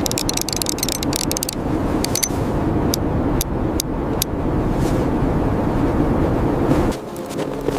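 Strong blizzard wind blowing with a steady low rumble, with quick sharp crackles through the first few seconds. The wind noise drops suddenly near the end.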